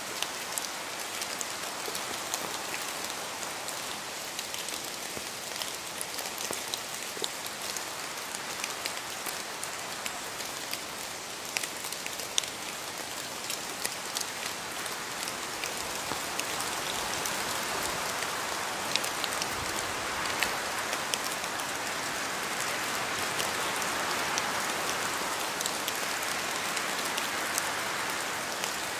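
Steady rain falling on a surface, a dense hiss with many distinct drop taps scattered through it, growing slightly heavier about halfway through.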